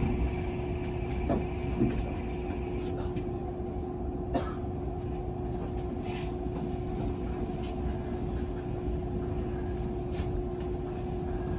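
Tokyu 7000 series electric train rolling slowly over station pointwork, heard from inside the front of the train: a low running rumble with a steady hum, and a few sharp clicks from the wheels crossing rail joints and switches.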